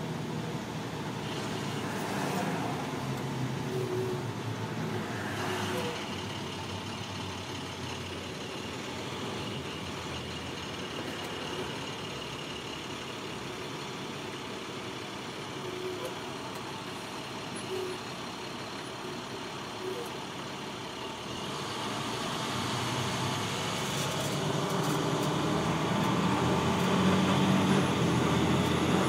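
Motor vehicle driving: steady engine and road noise, growing louder over the last several seconds.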